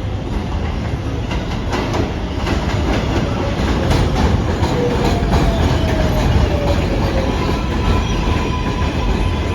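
R188 subway train running along the track, its wheels clicking over rail joints under a heavy rumble. A falling motor whine sounds around the middle, and a steady higher whine follows near the end.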